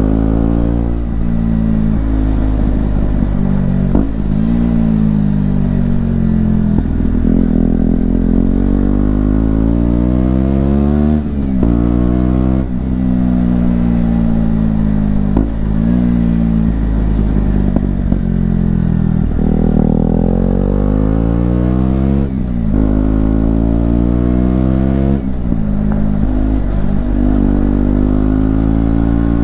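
KTM Duke 125's single-cylinder four-stroke engine accelerating hard through the gears, its pitch climbing and then dropping sharply at each gear change, again and again.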